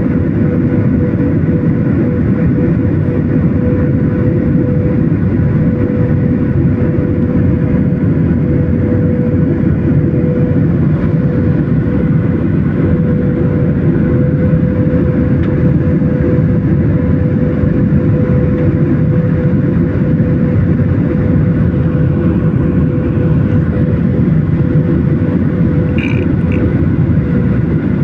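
Airplane engine noise: a steady low rumble with a constant droning hum that neither rises nor falls.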